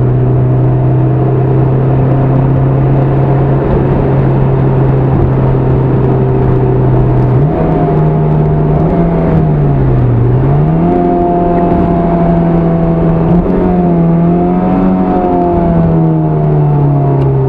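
Honda S2000 inline-four through a Milltek dual exhaust, heard from inside the cabin with the top up while cruising at highway speed. The steady engine note rises in pitch about halfway through, dips briefly, climbs again, then falls away near the end.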